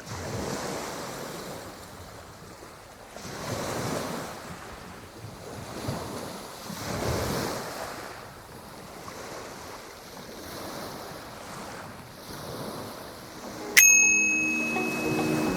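Ocean surf: waves breaking and washing in, swelling and fading about every three to four seconds, with some wind on the microphone. Near the end a bright chime strikes, ringing out as music begins.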